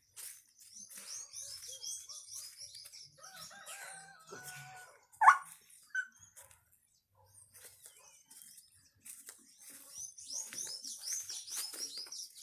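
Birds calling: runs of quick, high, repeated chirps, with a longer, lower held call in the middle and one loud short call about five seconds in.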